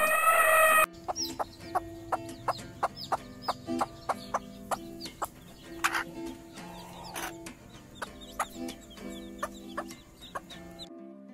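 Chicken clucking in a quick run of short calls over background music with steady held tones. It opens with the tail end of a loud, long pitched call that cuts off about a second in.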